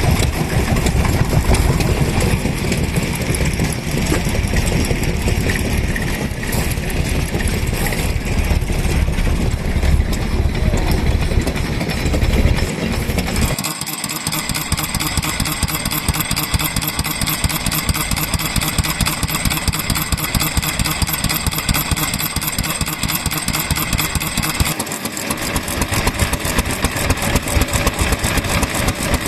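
Vintage stationary engines running. The sound changes abruptly about 14 s in to an even, rapid chugging, and changes again around 25 s in.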